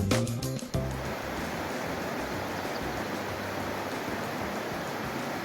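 Background music ends about a second in, giving way to the steady rushing of a flowing river.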